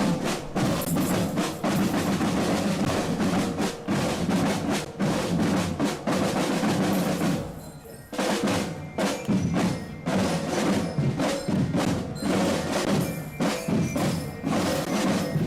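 Military marching drum corps playing: rapid snare drum rolls and strikes over bass drum beats, with a brief drop a little past halfway before the drumming picks up again.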